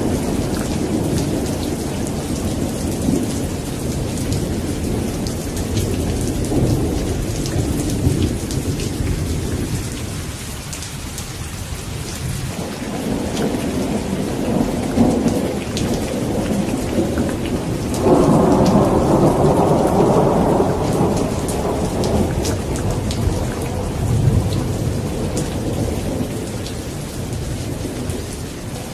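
Steady rain in a thunderstorm, with low thunder rumbling on and off. About eighteen seconds in, a louder thunderclap breaks in suddenly and rumbles for a few seconds before fading back under the rain.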